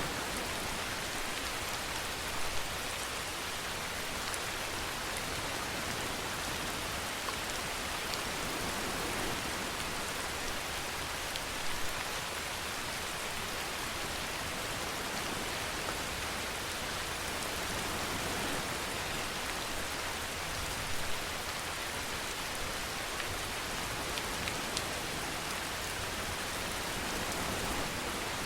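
Steady rainfall hissing evenly, with a few slightly louder drop splashes now and then.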